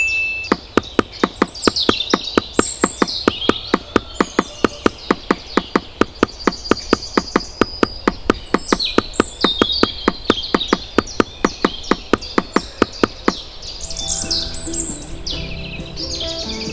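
Birds chirping and singing throughout. Under them runs a fast, even series of sharp clicks, about five a second, which stops about 13 seconds in. Steady low tones come in near the end.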